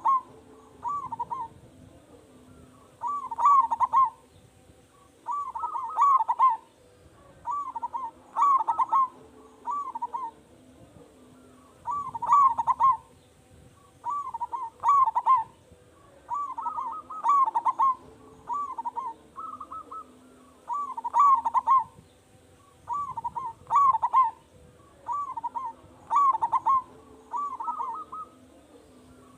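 Zebra dove (perkutut) cooing its loud song: short rolling cooing phrases repeated about every two seconds, over a faint steady hum.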